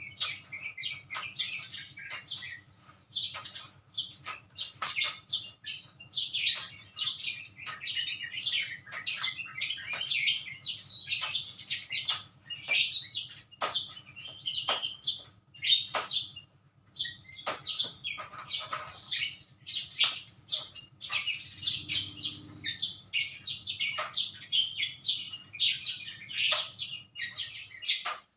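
Small songbirds chirping rapidly and continuously in quick short notes, with a brief lull about two-thirds of the way through.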